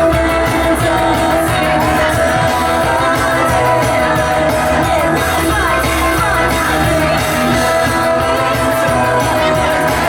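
Live rock band playing loud, with a vocalist singing over sustained electric guitars, bass and drums.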